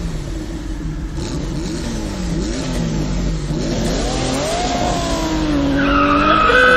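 Cartoon car engine sound effect running and revving, its pitch rising and falling, with a held higher tone coming in near the end.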